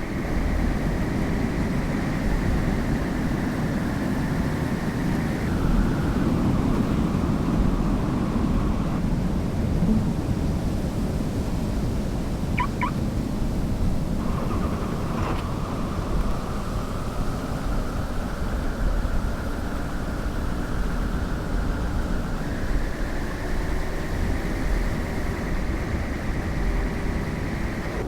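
Road and engine noise of a car being driven, heard from inside, with a thin whine that drops in pitch about a third of the way in and climbs back up later on. Two short, quick high beeps come near the middle.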